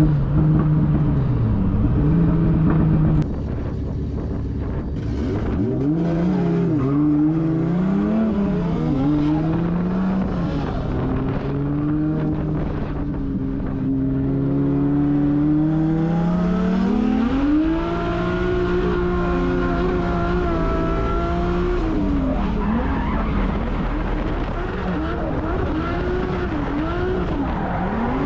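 Toyota 1.5JZ straight-six in a drift car, revving up and down hard through a drift run, with tyres skidding and squealing.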